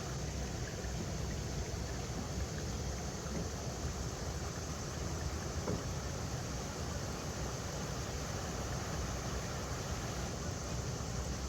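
River water running over rocks: a steady, unbroken rush with a strong low rumble.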